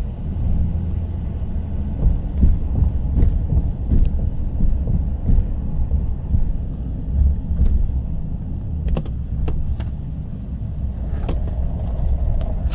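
Low, steady rumble of a car heard from inside the cabin, with a few faint clicks.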